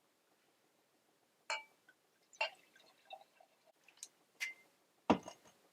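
Wine glasses clinking and being handled: a few short, sharp clinks spaced about a second apart, some with a brief glassy ring. A louder knock comes near the end.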